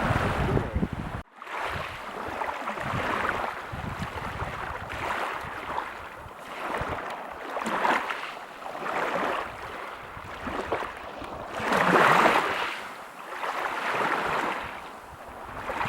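Ocean surf breaking and washing up a beach in repeated swelling, hissing surges, the loudest about twelve seconds in. A low rumble cuts off abruptly a little over a second in, with a brief dropout.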